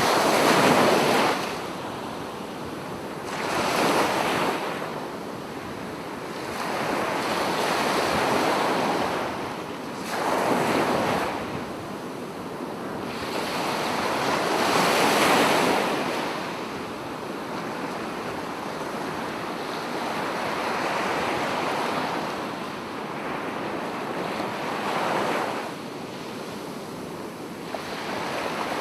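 Sea waves breaking on a beach: the surf swells and falls back about seven times, the loudest break right at the start, with a steady wash of water between breaks.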